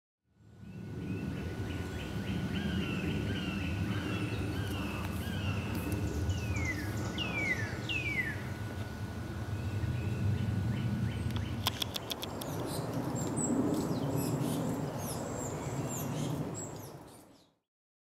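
Outdoor ambience of several birds chirping, with three descending whistled calls near the middle, over a steady low rumble. A quick run of clicks comes about two-thirds through, and the sound fades in and out.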